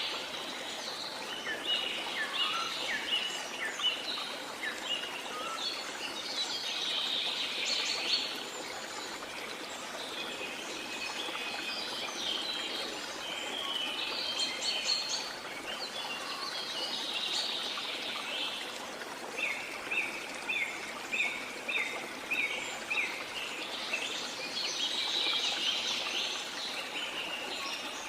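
Rainforest ambience: many birds calling and chirping over a steady hiss of rain, with a run of quick repeated notes, about three a second, about two thirds of the way through.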